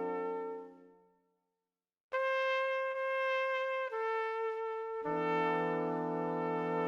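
Background music of slow, held brass notes: a chord fades out, a short silence follows, then a single sustained note steps down once before a fuller, lower chord comes in about five seconds in.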